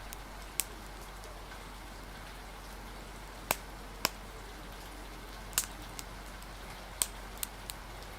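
Wood fire crackling: sharp, irregular pops, about eight of them and several seconds apart at first, over a steady hiss of rain.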